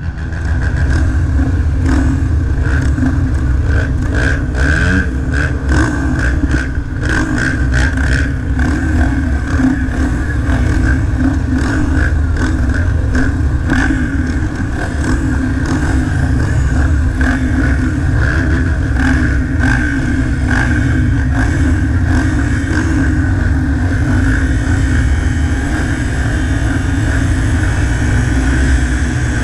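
230 cc motocross motorcycle engine running with a steady, loud drone, with frequent short clattering knocks through it.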